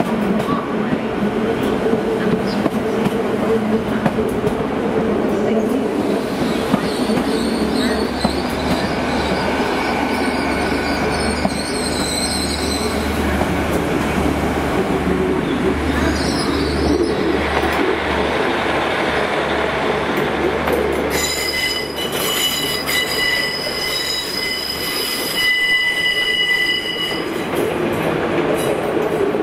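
A GWR Intercity Express Train running slowly along the platform: a steady rumble of wheels on rail with a low hum. In the later part high-pitched wheel squeal sets in for several seconds as a Transport for Wales diesel multiple unit led by a Class 153 comes in on the adjacent track.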